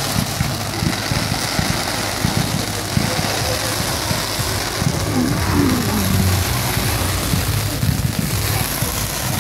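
Fireworks going off in rapid, unbroken succession: a dense, continuous rumble of crackling and popping from ground-launched fountains and comets.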